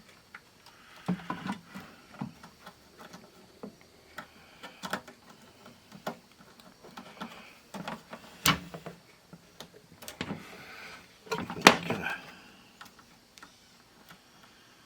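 Handling noise from the opened 8-track player's chassis and parts: scattered light clicks and rattles, with a sharp knock about eight and a half seconds in and a louder one near twelve seconds.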